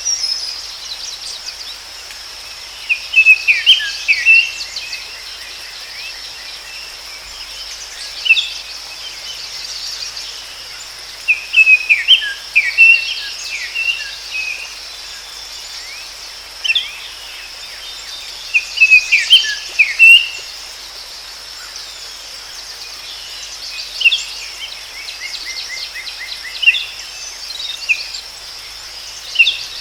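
Forest ambience: a steady high-pitched insect trill, like crickets, under a songbird singing short, bright, quickly repeated phrases every few seconds.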